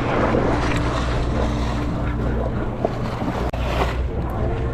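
Boat engine running steadily at a low hum, with wind buffeting the microphone and the sea washing around the hull.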